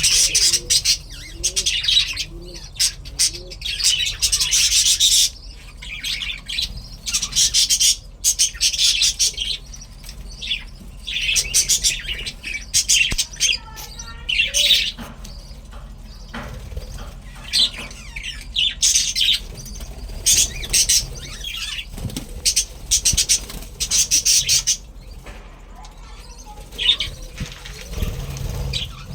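A colony of budgerigars chattering and chirping in repeated bursts of a few seconds each, with brief lulls between.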